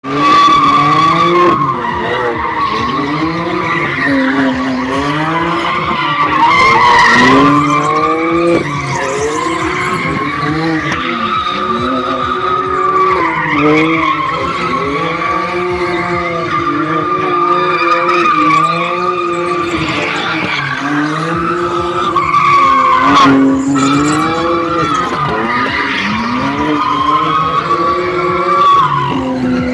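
A car drifting, its tyres squealing without a break while the engine revs up and down again and again.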